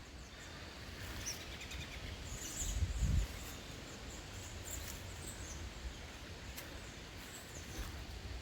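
Woodland ambience with scattered short bird chirps. A brief gust of wind hits the microphone about three seconds in.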